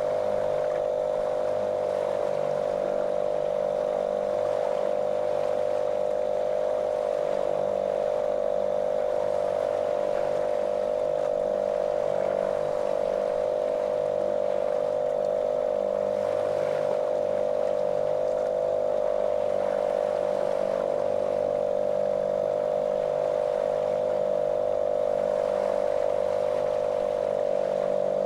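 Small motorboat's engine running at a steady speed: a monotonous drone with a constant pitch.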